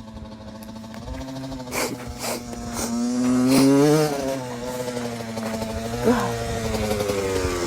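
Two-stroke dirt bike engine running, revving up to a peak about three and a half seconds in and then easing back to a steadier speed.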